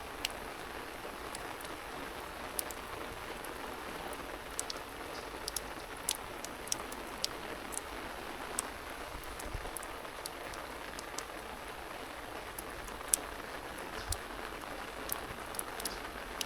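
Steady light rain, with scattered drops ticking sharply close by.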